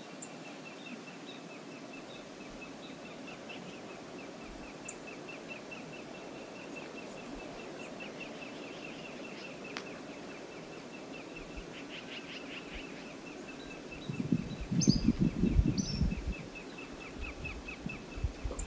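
Steady rushing of the Brooks River as the background, with a fast series of faint high ticks and a few short bird chirps. About three quarters of the way in, loud low rumbling thumps come for a couple of seconds, then fade to weaker ones.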